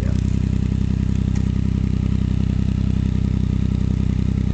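Triumph Speed Triple 1050's three-cylinder engine idling steadily through Arrow slip-on exhausts, with an even, fast pulse.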